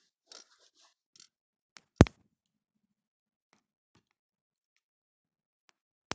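Short scraping and rustling sounds, then a single loud, sharp snap about two seconds in, a couple of faint ticks, and another sharp click at the very end.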